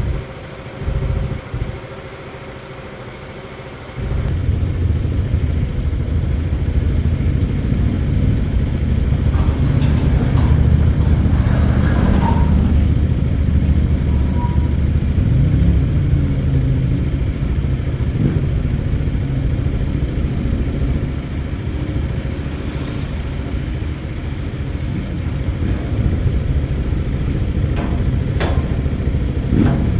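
Scooter engine running, quieter at first, then much louder and steady from about four seconds in, after the oil change.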